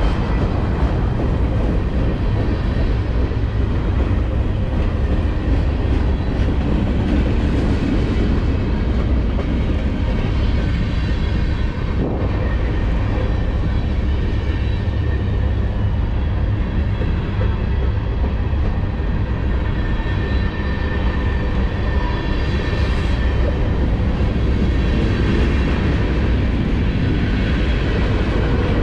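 Union Pacific train rolling past close by: a steady, loud rumble of wheels on rail.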